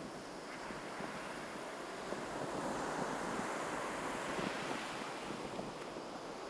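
Surf breaking on a beach: a wave's wash swells over a couple of seconds and then eases off, with a fizzing crackle throughout.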